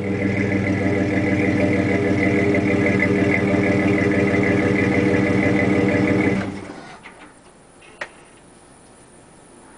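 Chevrolet S-10 pickup's engine and exhaust running steadily at idle, then shut off about six and a half seconds in, dying away within half a second. A single sharp click follows a moment later.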